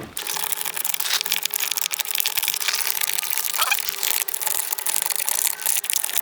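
Cordless electric drill with a socket running on a rusted wheel lug nut, a steady rapid rattling and grinding.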